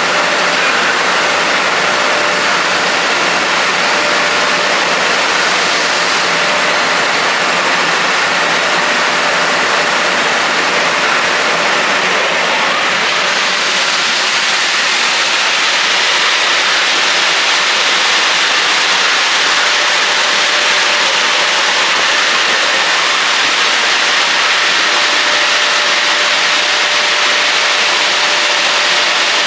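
Industrial bucket washing machine running, its high-pressure spray nozzles giving a steady rushing hiss of water with a faint steady machine hum underneath.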